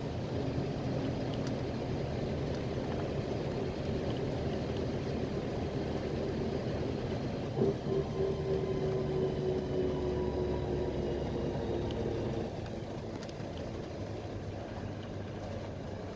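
Ride inside a PAZ-320405-04 Vector Next bus on the move: steady engine and road noise with a whine that falls slightly in pitch. A single knock comes about eight seconds in, and the sound turns quieter about twelve seconds in, the whine stopping.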